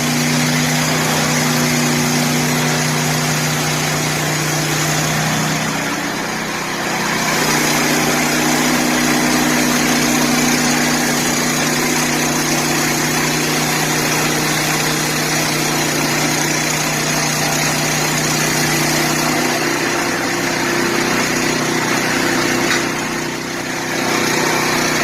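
Gasoline engine of a Hud-Son HFE 30 Homesteader portable bandsaw mill running under load while the band blade cuts lengthwise through a log on its first cut, with a steady hiss over the engine hum. The engine note shifts at about six seconds in and again near twenty seconds.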